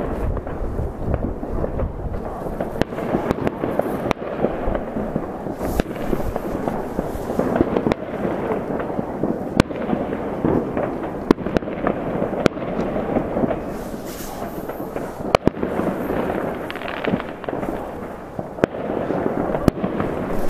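Many fireworks going off at a distance at once: a continuous wash of far-off bangs and crackle, cut by frequent sharp, louder bangs at irregular intervals.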